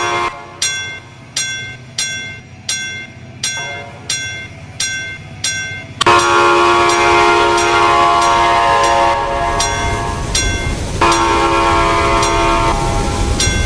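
A bell ringing at an even pace, about three strikes every two seconds. About six seconds in, a train horn starts sounding a chord in long blasts over the low rumble of a train, while the bell keeps ringing.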